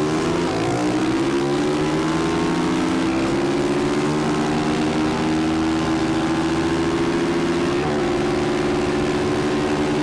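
Small four-stroke pit bike engine at full throttle accelerating from a standing start in a race, its pitch climbing over the first few seconds and then holding high and steady near top speed, with a brief dip in pitch about eight seconds in.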